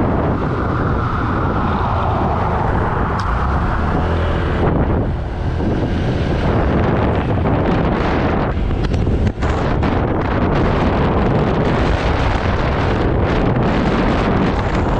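Strong wind buffeting the microphone on a moving 2018 Honda PCX150 scooter: a loud, unbroken rumble of wind noise that covers the scooter's running and road noise. It drops out briefly twice, about five seconds in and again near nine seconds.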